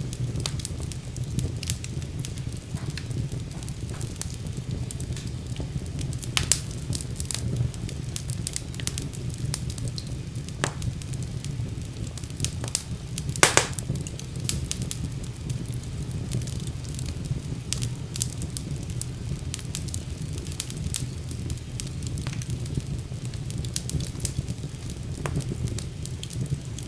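Wood fire burning with a steady low rumble and scattered crackles and pops, the loudest pop about halfway through.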